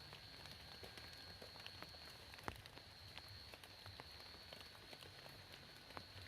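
Quiet rain ambience: scattered faint ticks of falling drops, with one sharper tick about two and a half seconds in, over a steady high-pitched whine.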